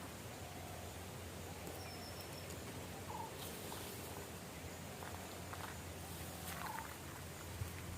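A bird giving a few short calls, two clearer ones about three seconds in and near the end, over a steady low hum.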